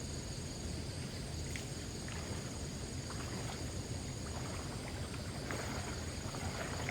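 Low sloshing of water as someone moves through it, under a steady high-pitched drone of insects.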